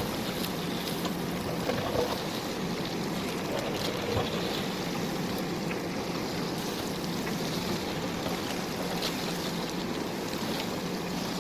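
JCB backhoe loader's diesel engine running steadily under work, with a few brief knocks.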